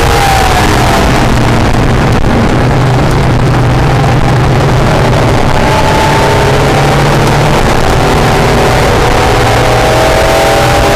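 Acura NSX's mid-mounted V6 driven hard on a race track: the engine note drops briefly right at the start, then climbs again as the car accelerates, rising twice in the second half. Heavy wind and road noise run under it, and the recording is loud throughout.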